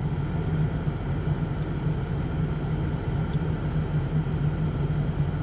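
Steady drone of a car on the move, engine and road noise heard from inside the cabin.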